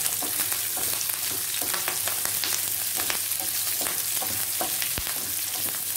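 Shallots, garlic, a green chilli and curry leaves sizzling in hot oil in a non-stick pan, with many small crackles and pops, as a wooden spatula stirs them. One sharper tick comes near the end.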